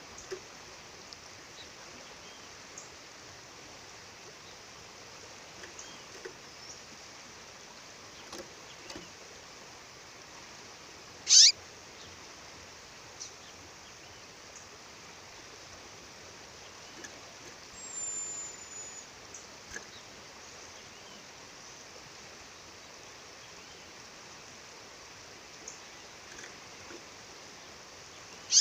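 Steady rush of a waterfall with scattered faint chirps from a calling female bird; about eleven seconds in she gives one loud, brief call sweeping down in pitch, and another sharp call comes near the end.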